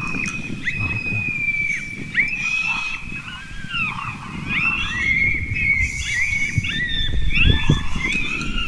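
Coyote howling and yipping: long held high calls broken by short dips and glides, with two or more voices overlapping in the second half, meant to stop an approaching coyote in its tracks.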